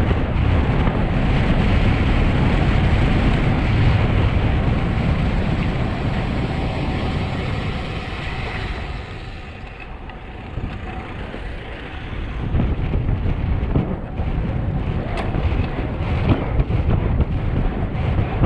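Wind rushing over a camera microphone on a fast road-bike descent, with tyre noise on asphalt. It eases off about ten seconds in, then builds again.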